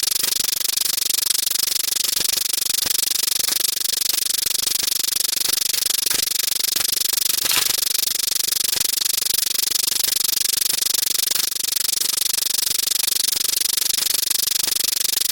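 Sound effects layered on top of one another into a dense, steady clatter of rapid clicks over a bright hiss.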